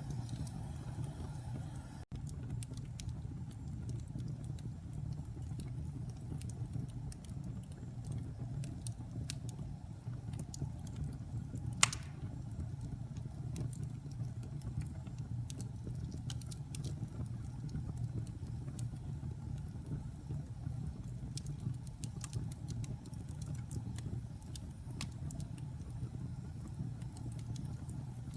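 Wood fire burning in a fireplace: a steady low rumble with scattered crackles and one loud pop about twelve seconds in. The sound drops out for a split second about two seconds in.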